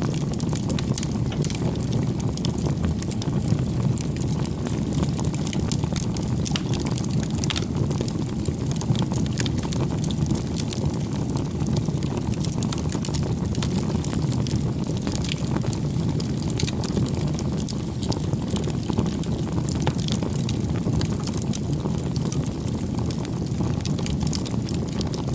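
Wood bonfire burning: a steady low rush of flame with frequent small, irregular crackles and pops from the burning wood.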